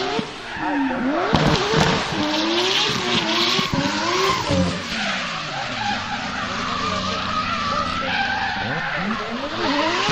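Drift car engine revving up and down again and again over a haze of tyre skid and squeal; about midway the revs hold high through a longer slide before sweeping up and down again near the end.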